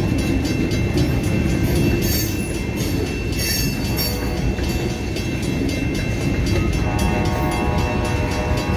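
Freight train of covered hopper cars rolling past: a steady, unbroken rumble of steel wheels on rail.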